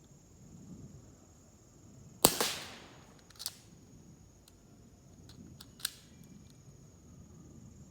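AEA Max .357 (9 mm) pre-charged pneumatic air pistol fires one sharp shot about two seconds in, which dies away over most of a second. Two much fainter clicks follow, about a second and three and a half seconds after the shot.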